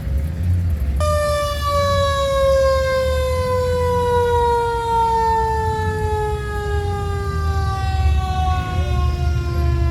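A siren cuts in suddenly about a second in on one rich tone, then slowly falls in pitch as it winds down. A steady low engine rumble runs underneath.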